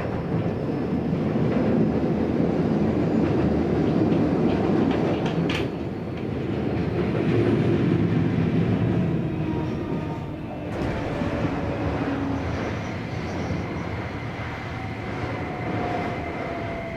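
Keio Series 5000 electric commuter train running, heard from inside the passenger car: a steady rumble of wheels on rail with a sharp click about five seconds in. Near the end the traction motors' whine falls slowly in pitch as the train slows.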